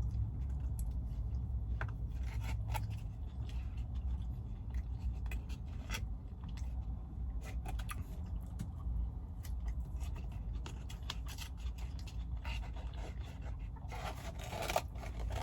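Close-miked eating sounds from a burger: scattered wet clicks and scrapes of chewing and handling, over a steady low hum, with a denser rustle near the end.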